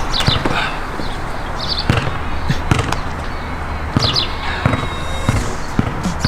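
A basketball bouncing on a court, with sharp, uneven thuds roughly once a second.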